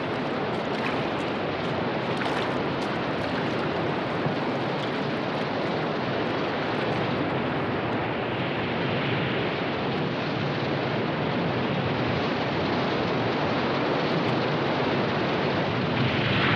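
Rushing white water of river rapids: a loud, steady wash of churning water, with a few brief sharp splashes in the first few seconds.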